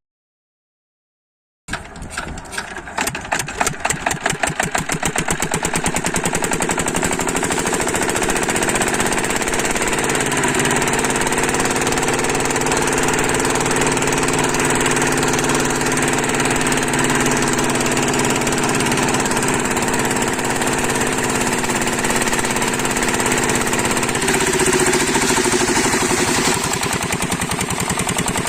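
8 hp diesel engine of an irrigation water pump set starting: separate slow firing beats quicken over a few seconds into a steady, loud run. The pitch rises slightly about ten seconds in and shifts again near the end.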